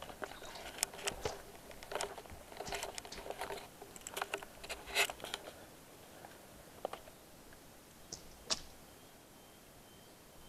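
Footsteps crunching and scuffing on gritty rock steps going downhill, a quick run of steps over the first five seconds, then only a couple of single footfalls.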